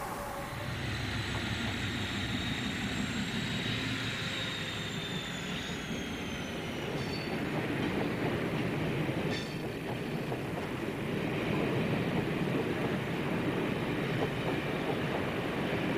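A diesel locomotive hauling a train of tank wagons rumbles past. A high wheel squeal slowly falls in pitch and fades over the first six seconds or so, and a single click sounds about nine seconds in.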